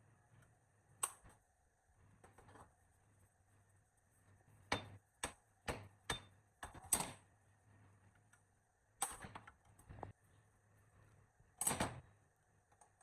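Scattered sharp clicks and knocks of hand tools and metal parts being handled, about nine at uneven intervals, the loudest about seven and twelve seconds in, over a faint low hum.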